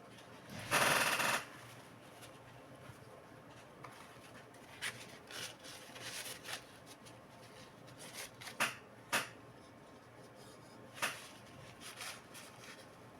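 Laptop parts being handled during repair: a brief, loud scraping rub about a second in, followed by scattered light clicks and taps.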